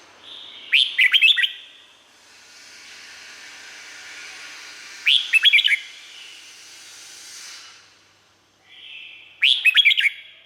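Red-whiskered bulbul singing three short phrases about four seconds apart, each a quick run of whistled notes, over a steady hiss.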